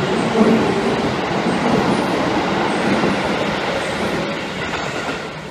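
Electric commuter train pulling out of the station past the platform: a steady rumble of wheels on the rails that fades as the last car goes by.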